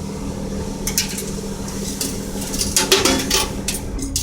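Coins and the metal pull mechanism of a coin-operated vending machine clinking and rattling. There is a single click about a second in and a cluster of clinks near the end, over a steady low hum.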